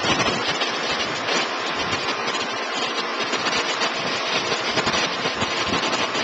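Steady rushing noise of strong tropical-storm wind.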